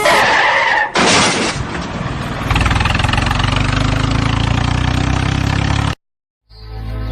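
Vehicle sound effects: a couple of short noisy crashing bursts, then a heavy vehicle engine running steadily. The engine cuts off suddenly, and after a brief silence music with bird chirps begins near the end.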